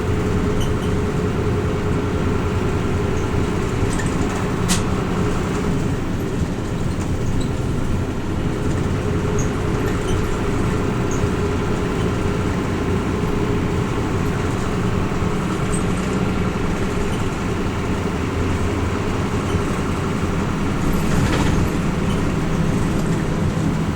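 Hino Rainbow RJ city bus's diesel engine running steadily under way, with road noise, heard from inside the passenger cabin. A single sharp click about five seconds in.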